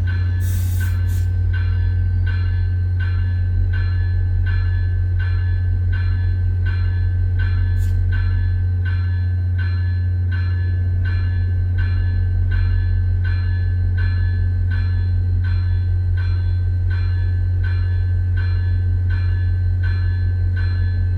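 Diesel locomotive bell ringing steadily at about two strikes a second, over the steady low drone of the locomotive's diesel engine running.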